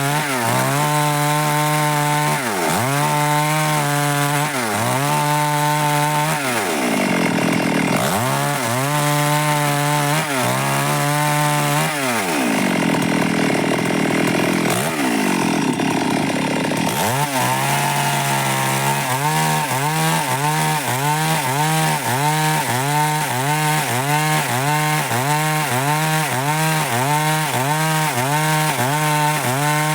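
Stihl MS 382 two-stroke chainsaw cutting dry wood at full throttle, its engine pitch dipping and recovering over and over as the chain loads up in the cut. The dips come about every two seconds at first, sag longer and deeper through the middle, then quicken to about once a second near the end.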